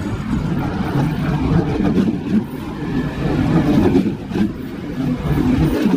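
Red DB Regio electric multiple unit passing close by on the track: a steady rumble of wheels and running gear, with a few short clicks about two and four seconds in.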